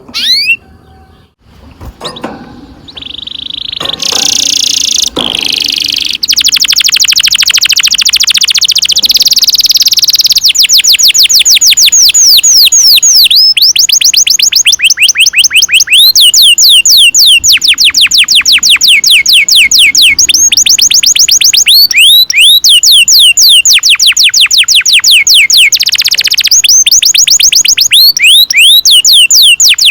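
Domestic canary singing a long rolling song: a few short chirps and buzzy notes first, then from about six seconds in a near-unbroken trill of fast repeated sweeping notes. Each phrase holds a few seconds before it switches to the next.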